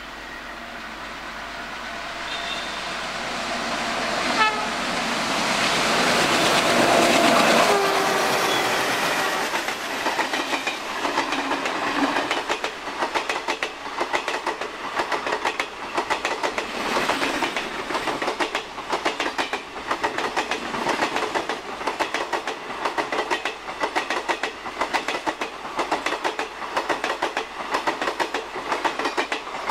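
A train headed by two ALCo diesel locomotives approaching and passing, its engine noise swelling to a peak about seven seconds in. Then the wheels click over the rail joints in a steady rhythm as the rest of the train goes by.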